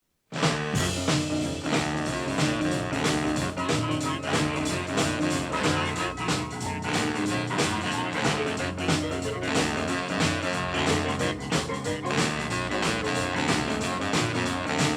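Instrumental intro of a late-1940s rhythm-and-blues boogie: a small band led by boogie-woogie piano plays with a steady beat, with no singing yet.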